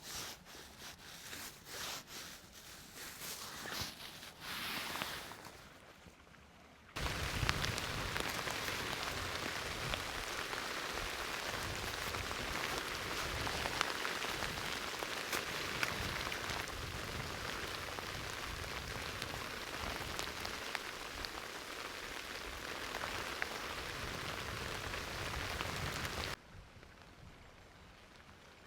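Scattered rustling and handling sounds, then, after an abrupt cut about seven seconds in, heavy rain falling steadily with many sharp drop ticks; the rain cuts off suddenly near the end.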